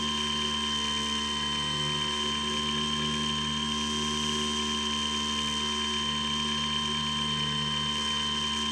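Skywalker X7 flying wing's electric pusher motor and propeller running at steady throttle in flight, an even whine of several fixed tones over a hiss of rushing air.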